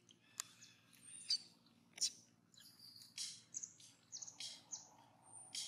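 Small birds chirping: many short, high-pitched chirps and brief whistled notes, several a second. A few sharp clicks stand out, the loudest about a second and a third and two seconds in.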